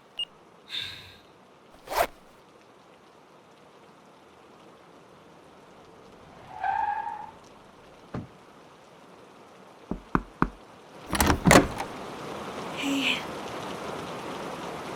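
Rain falling steadily, with scattered knocks and clunks: a sharp knock about two seconds in, three quick knocks around ten seconds, then a pair of louder clunks, after which the rain sounds much louder.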